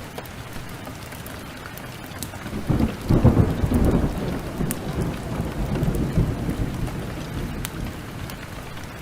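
Steady heavy rain with scattered sharp ticks, and a roll of thunder that swells about two and a half seconds in, peaks a second later and rumbles away over the next few seconds.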